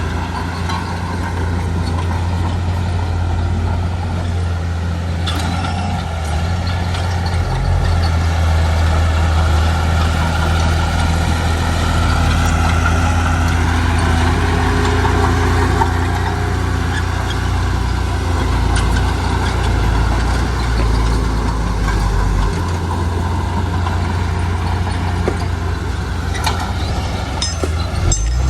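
Heavy diesel engine of construction machinery running steadily, its note shifting a few times as the load changes.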